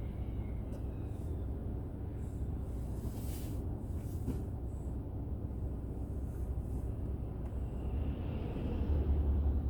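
Car cabin road and engine noise picked up by a dashcam while driving: a steady low rumble, with a brief hiss about three seconds in and the rumble growing louder near the end.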